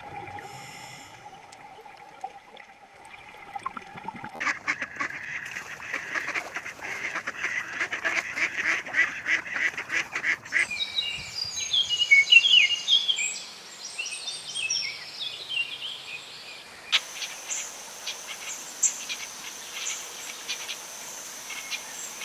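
Domestic fowl calling across a run of short clips that change abruptly about four, ten and seventeen seconds in; the middle stretch holds many short, high calls that glide up and down.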